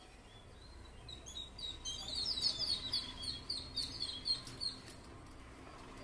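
A bird twittering: a rapid run of short, high chirps that starts about a second and a half in and fades out near the end.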